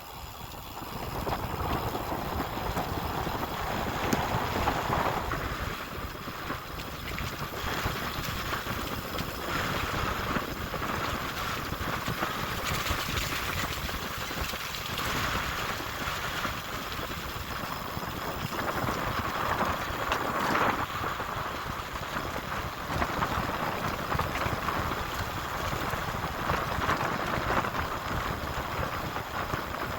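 Wind buffeting the microphone of a camera carried on a moving bicycle, a steady rushing noise that swells and dips.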